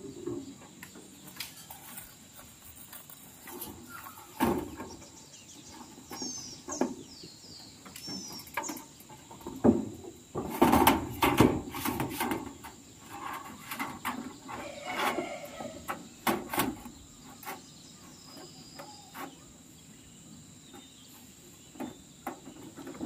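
Scattered, irregular knocks and rattles of hand work, most of them around the middle, over a steady high insect buzz, with a few short bird chirps early on.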